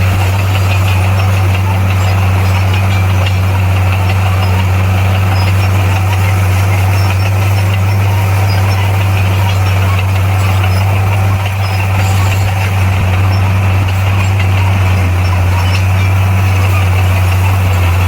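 Komatsu bulldozer's diesel engine running steadily, a loud, even low drone that holds its pitch throughout, with a brief slight dip about eleven seconds in.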